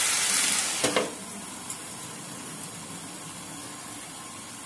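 Potatoes and peas frying in oil in a nonstick kadai. About a second in a glass lid clinks onto the pan, and the sizzling turns quieter and muffled under it.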